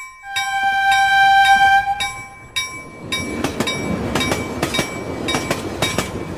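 Train horn sounding one long steady blast, then a train running past with a fast clickety-clack of wheels over rail joints, the clicks coming in pairs.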